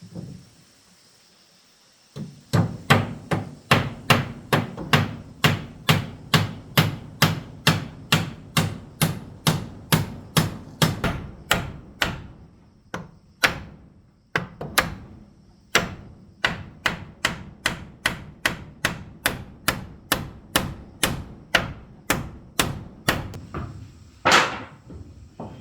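Hammer striking, a steady run of blows at about two or three a second. It pauses briefly about halfway through, with a few scattered knocks, then carries on at the same pace.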